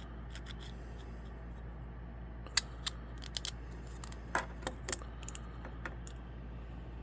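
Scattered light clicks and taps of 3D-printed plastic knife parts being handled, as the OTF blade is slid in its housing and catches, over a steady low hum.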